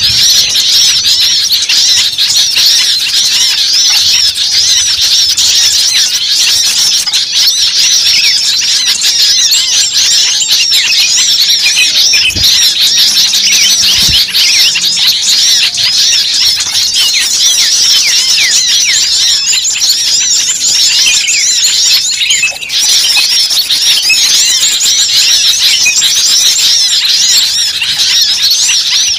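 Noisy chorus of many small songbirds (a bird-luring track) chirping and squeaking over one another in a dense, continuous, high-pitched clamour, with a brief lull about two-thirds of the way through.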